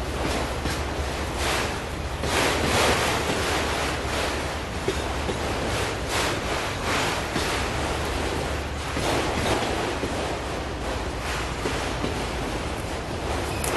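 Auto-rack freight train rolling past: a steady rushing noise of wheels on rail over a low rumble, swelling and easing every few seconds.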